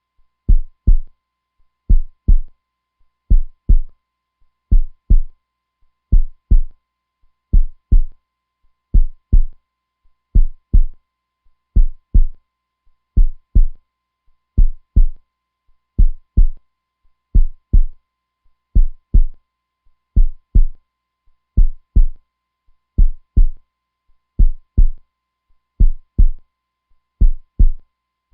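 Heartbeat sound: a steady lub-dub of paired low, dull thumps, a little over forty beats a minute.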